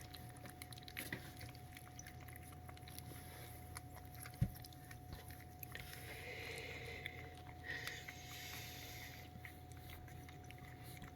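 Coton de Tulear puppies eating a soft food slurry, with faint wet licking and smacking clicks and a single thump about four and a half seconds in, over a faint steady hum.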